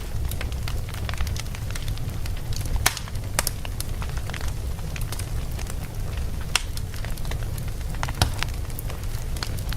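Wood fire burning in a fireplace: a steady low rumble of flame with irregular sharp crackles and pops from the burning logs, a few standing out louder than the rest.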